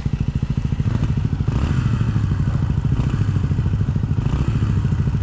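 Dirt bike engine running steadily at low revs, a little louder from about a second and a half in.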